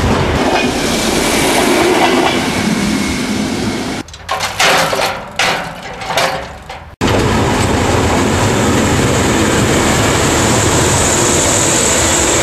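Train running noise from the open cab doorway of a moving ex-DR V100 diesel locomotive, with a DB class 624 diesel railcar running alongside. About four seconds in, a short stretch of separate knocks and clatter with gaps cuts in, and about three seconds later the steady running noise returns abruptly.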